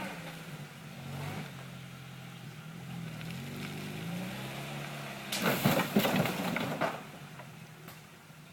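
Lada Niva engine running off-road, its revs rising and falling. About five seconds in, a loud clatter of knocks and scraping lasts about a second and a half.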